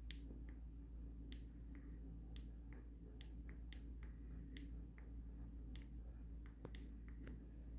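Faint, irregular sharp clicks, about one or two a second, over a steady low hum.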